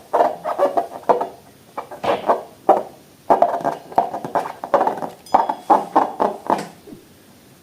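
Slime being squeezed and kneaded by hand: a quick run of wet squelches, several a second, with brief pauses and dying away near the end.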